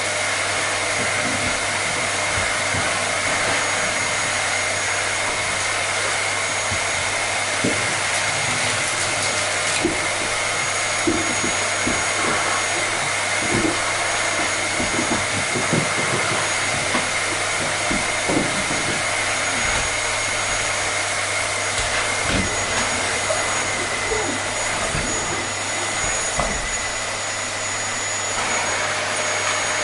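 Vacuum cleaner running steadily, a constant rushing noise with a thin high whine, as soothing white noise for babies. A few light low knocks come and go in the middle.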